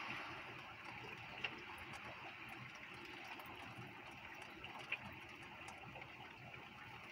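Heavy rain falling in a steady hiss, with two short sharp taps, about a second and a half in and near five seconds.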